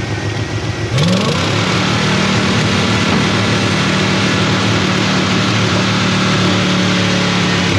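Carbureted engine of a 1989 Chevy C/K 1500 pickup, just started after sitting for years, runs and then speeds up sharply about a second in, holding a high, steady fast idle until it drops near the end. The owner puts the high idle down to the automatic choke sticking.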